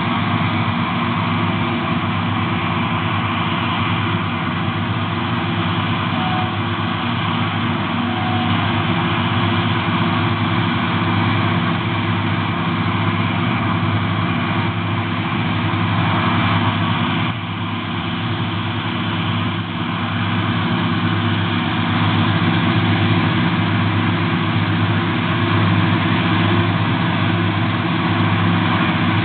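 Heavy diesel engine of farm machinery running steadily, with a brief dip in level about 17 seconds in.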